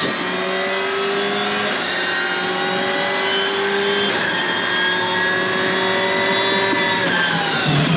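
Rally car engine running hard at high revs, heard from inside the cabin. The note shifts slightly twice, then falls near the end as the revs drop.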